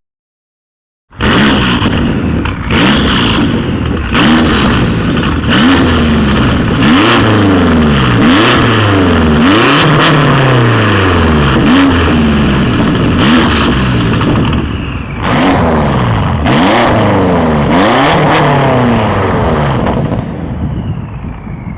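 BMW X5M (F85) twin-turbo 4.4-litre V8 through an Akrapovic exhaust with Eisenmann downpipes, revved over and over in quick rises and falls, with sharp cracks between the revs. It starts about a second in and settles down near the end.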